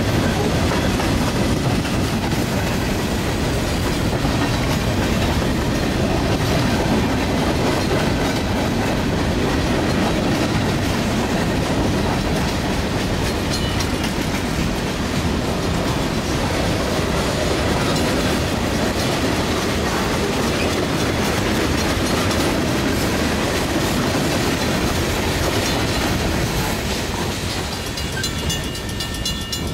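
Freight cars rolling steadily past a grade crossing, the sound easing off near the end as the last cars pass. As it fades, the crossing signal's bell can be heard ringing.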